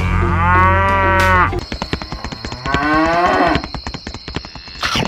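Cattle mooing twice in long drawn-out calls, the second starting about two and a half seconds in, with fast, dense ticking under and between the calls from about one and a half seconds on.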